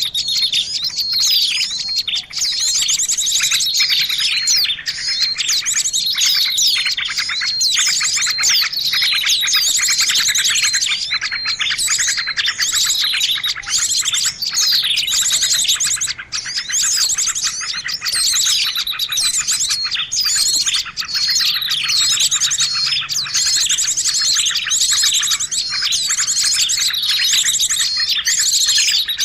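Noisy chorus of many small birds chirping and trilling at once, a dense, unbroken high-pitched chatter of overlapping calls and rapid trills. It is a bird-lure recording (pikat ribut), a busy flock sound used to draw in birds of all kinds.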